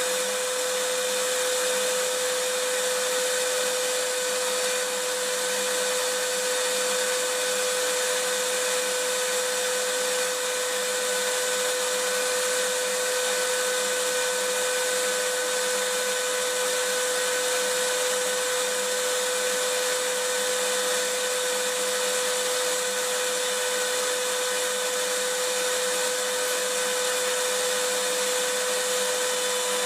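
Vacuum cleaner running steadily: a constant motor whine with a hiss of rushing air, holding one even pitch without change.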